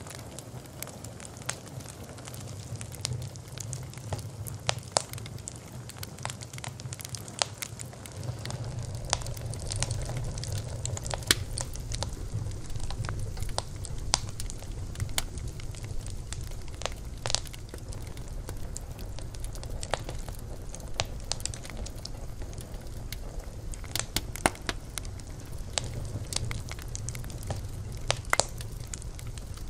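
Wood campfire burning, crackling with frequent sharp pops at irregular intervals over a low steady rumble of the flames.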